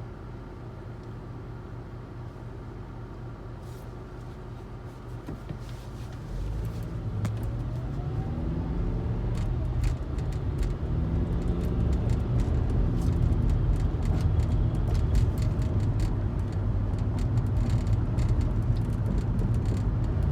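A low engine rumble that swells about six seconds in and stays loud, its pitch gliding up and down as the vehicle or aircraft moves, with scattered sharp clicks over it.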